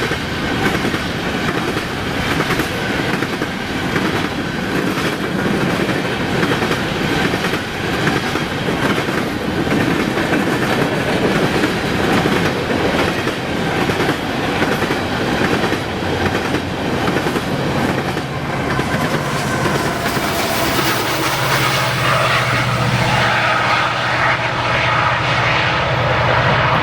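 Freight train rolling past, its wheels clicking steadily over the rail joints. Near the end, steady pitched tones come in over the rumble.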